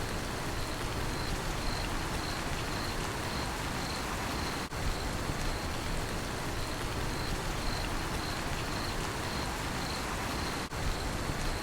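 Steady rain falling, with crickets chirping in a high, evenly pulsing trill over it. The sound breaks off for a split second twice.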